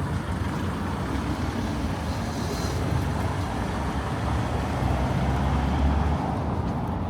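Road traffic: a steady low rumble of passing motor vehicles, with a brief higher hiss about two and a half seconds in.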